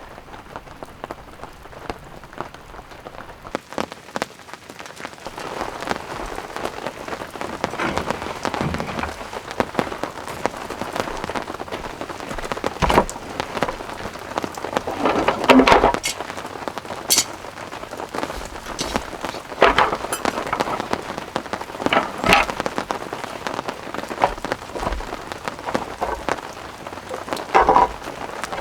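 Rain falling and pattering on surfaces close by, a dense scatter of drops that grows heavier about five seconds in, with louder single drips now and then.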